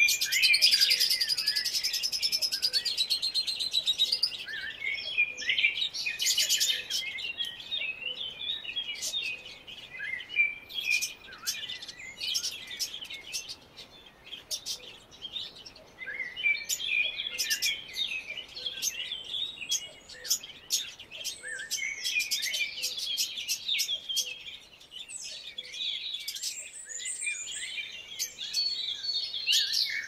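Several small birds chirping and twittering at once, a dense chorus of short high calls that thins out briefly midway before picking up again.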